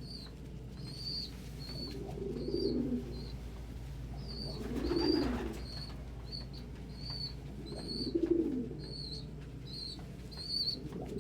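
Domestic pigeons cooing: four low rolling coos about three seconds apart. Under them is a steady thin high chirping, about two chirps a second.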